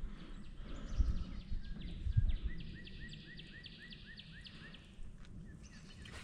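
A bird singing a fast run of repeated chirping notes, about five a second, for a few seconds. Low rumble with a couple of dull thumps sits underneath.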